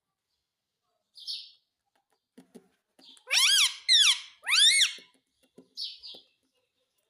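Ring-necked parakeet giving three loud screeches in quick succession, each rising then falling in pitch, with a short raspy chatter a second or two before and after.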